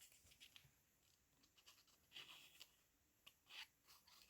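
Near silence with a few faint, brief rustles and scratches of paper being handled and shifted on a page.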